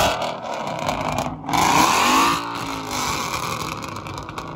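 Ford Mustang GT's 5.0 V8 revved once about a second and a half in, the pitch climbing and then falling back as the revs drop.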